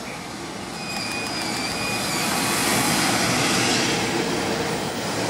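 JR Freight EF210 electric locomotive passing with a steady high whine, followed by its container wagons rolling along the rails; the noise grows louder over the first few seconds.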